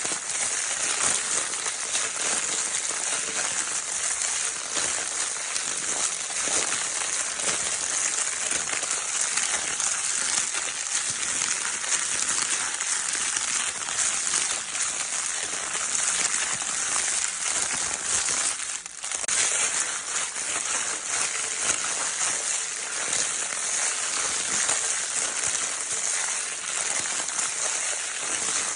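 Crinkle paper in a baby's crinkle toy, handled without a break: a dense, steady crackling rustle with a brief dip about two-thirds of the way through.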